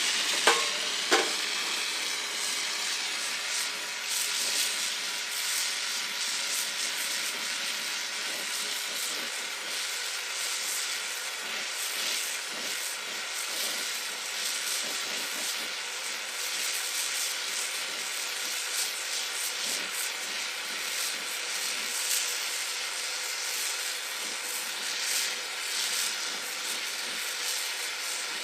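Oxy-fuel brazing torch flame hissing steadily, freshly adjusted with the oxygen open, while heating copper HVAC refrigerant lines. Two sharp knocks about half a second and a second in.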